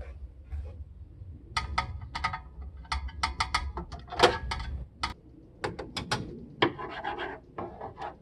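Hands and tools working on the parts of a CRT TV cabinet: a quick run of sharp clicks, knocks and scrapes, the loudest about four seconds in, over a low hum that fades about five seconds in.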